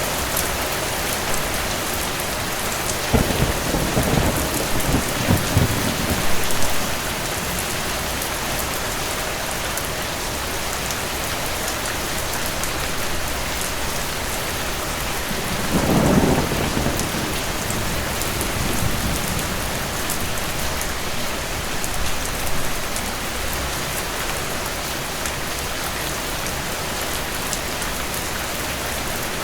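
Steady rain with two rolls of distant thunder, a longer rumble a few seconds in and a shorter one about halfway through.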